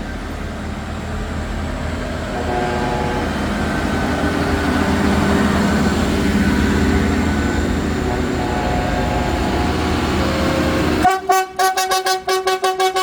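Tractor engines running with horns sounding. About eleven seconds in, the low rumble cuts off and a rapid pulsing tone takes over, about five pulses a second.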